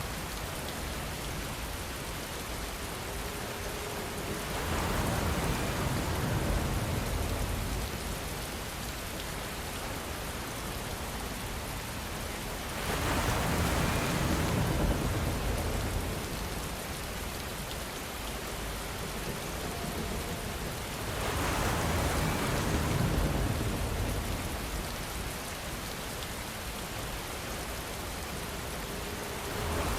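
Steady rainfall, an even hiss of falling drops. About every eight seconds it swells louder for two or three seconds, with more low rumble in each swell.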